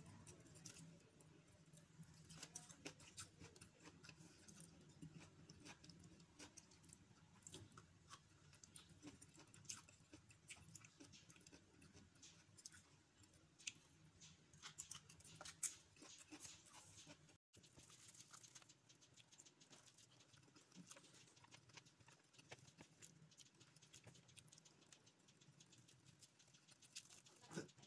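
Faint close-up eating sounds: chewing and lip-smacking with many small, irregular clicks, as boiled okra and leafy greens are eaten by hand.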